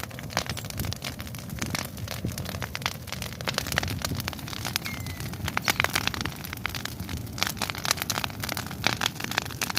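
Bonfire of pruned branches and twigs crackling, with dense irregular pops and snaps over a steady low rumble.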